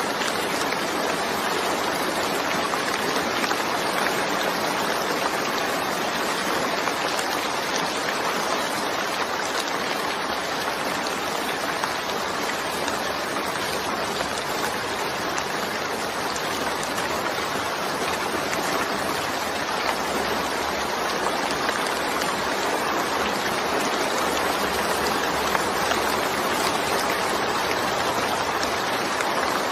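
Steady rainstorm: rain falling in an even, unbroken hiss with no separate drops or pauses.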